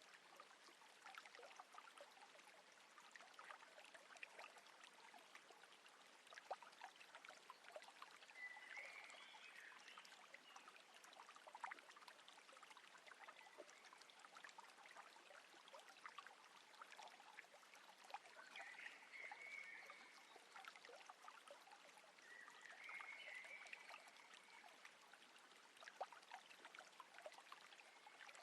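Faint water trickling and lapping, with many small irregular ticks and drips. Three short, high warbling calls stand out over it, about nine, nineteen and twenty-three seconds in.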